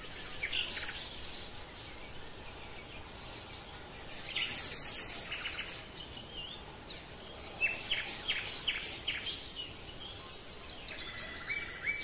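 Birds chirping and calling, with short trills and quick rising and falling notes over a faint steady hiss.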